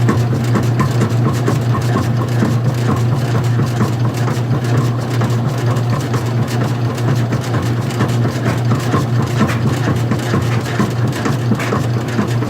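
Old-style front-loading washing machine running with its cover off: the belt-driven drum motor gives a steady low hum, with many light irregular clicks and rattles.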